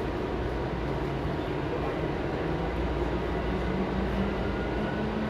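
Electric commuter train running with a steady rumble, and a faint motor whine that rises slowly in pitch toward the end.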